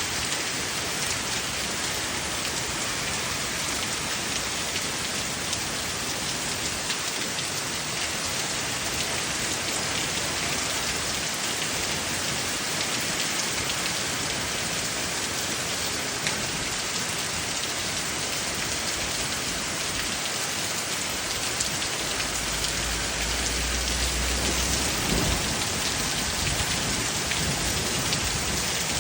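Steady rain falling, an even hiss throughout. A low rumble joins in for the last several seconds.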